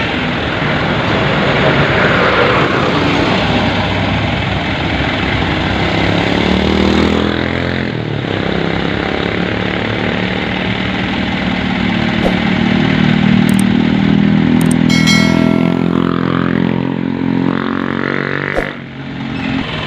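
Dump truck's diesel engine running, its speed rising about seven seconds in and then held high. A few sharp clicks and a brief high tone come through about two thirds of the way in.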